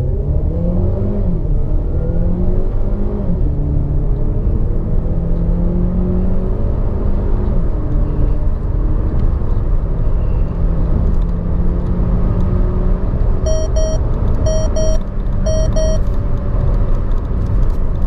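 Renault Talisman's 1.6-litre turbocharged four-cylinder engine under hard acceleration in Sport mode, heard from inside the cabin. Its pitch climbs and drops back at each upshift of the seven-speed dual-clutch gearbox, several shifts in the first eight seconds, then pulls more steadily at high speed. A car chime beeps three times in quick pairs near the end.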